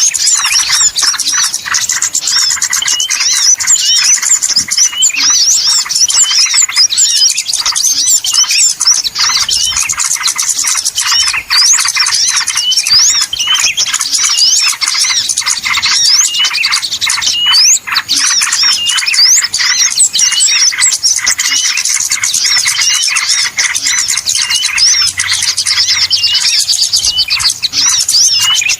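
Dense, continuous chorus of many small birds chirping and squeaking with quick high notes: a noisy mixed small-bird lure call of the kind used to draw small birds to a trap.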